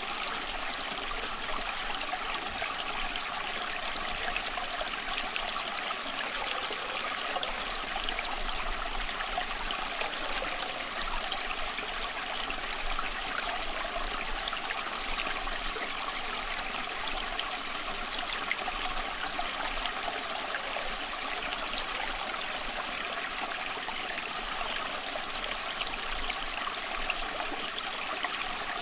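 Steady rushing and trickling of a small stream flowing over stones, an even water noise with a fine bubbling texture that does not change.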